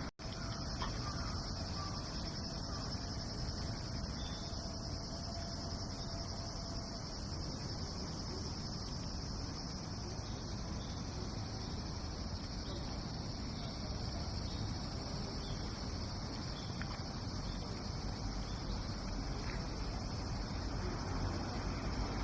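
Steady chorus of crickets and other singing insects, a constant high shrill with several pitches layered, over a low outdoor rumble.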